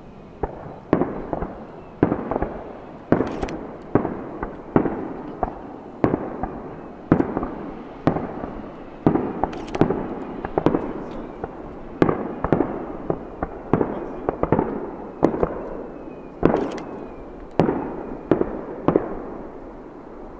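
Fireworks display: aerial shells bursting in a steady run of bangs, about one or two a second, each trailing an echo.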